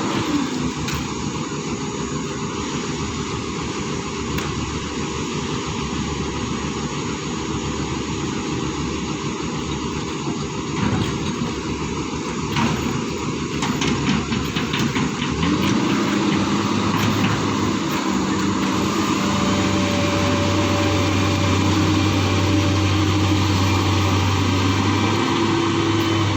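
Excavator's diesel engine running under working load, its note getting louder and heavier about two-thirds of the way through, with a few metallic knocks in the middle.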